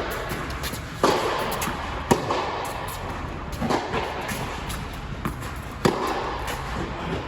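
Tennis ball struck by racquets, one of them a Yonex Percept 100D, and bouncing on the court during a rally: a sharp pop every second or two, the loudest hits about a second in, at about two seconds and near six seconds.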